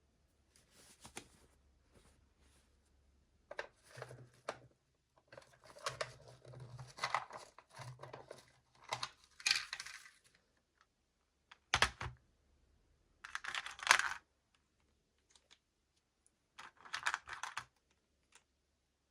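Hands opening and handling small plastic toy packaging: irregular crinkling and tearing in short bursts, with sharp clicks of small plastic parts, the loudest click about twelve seconds in.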